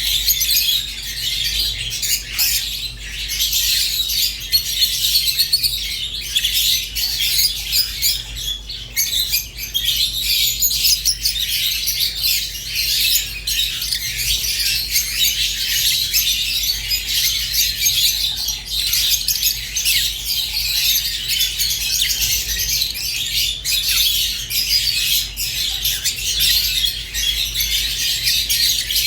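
Rosy-faced and Fischer's lovebirds chirping nonstop in a dense, high-pitched chatter, over a steady low hum.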